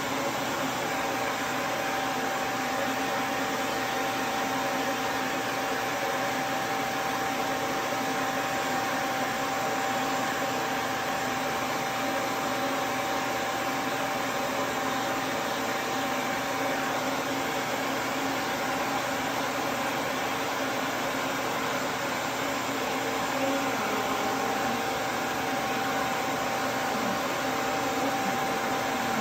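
Duz V3 pet dryer's fan running steadily: an even rush of air with a constant whine.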